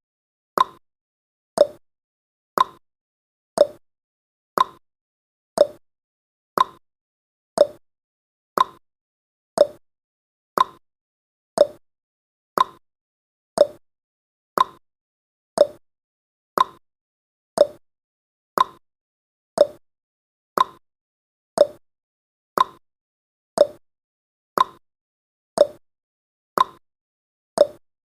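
Countdown timer's clock-tick sound effect: one sharp tick each second, alternating between a higher and a lower click in a tick-tock pattern.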